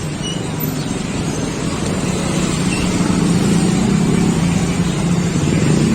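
A motor vehicle's engine running close by, steady and slowly getting louder.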